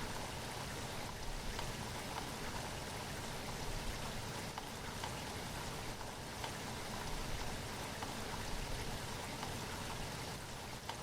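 Steady rain falling, with individual drops standing out as faint clicks now and then.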